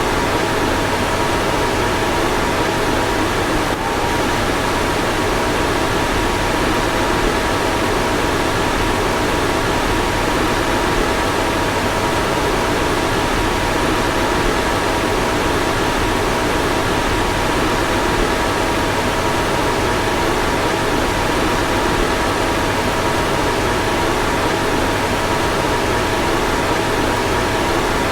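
A car's fan running steadily: an even rushing of air with a faint constant whine through it.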